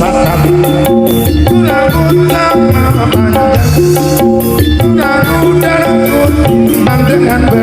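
Jaranan accompaniment music played loudly: a percussion-led ensemble with drum strokes and shaker, over held pitched notes and a repeating low note pattern.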